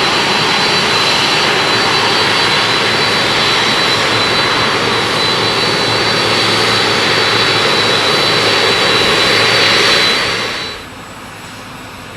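Jet airliner engines at high power: a loud, steady rushing roar with a thin, steady high whine on top. About ten and a half seconds in, the sound falls away sharply to a much lower background.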